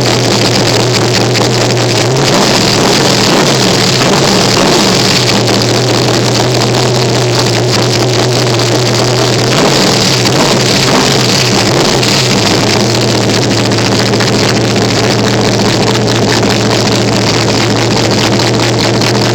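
A 496 cubic-inch big-block V8 with an Enderle mechanical fuel-injection hat, running on alcohol, idling steadily and loud.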